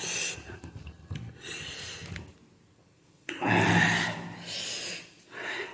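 A person breathing hard in several noisy breaths through the mouth, with a short pause about halfway, the panting of someone who has just eaten very spicy noodles.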